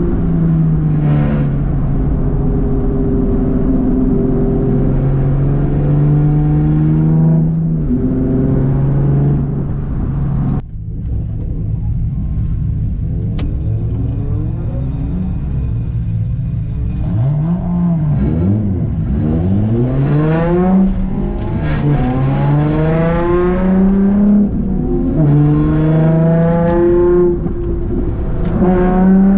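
Nissan Z33's VQ V6 engine heard from inside the cabin, running at low revs, dropping suddenly to idle about ten seconds in, then revved up and down several times in the second half.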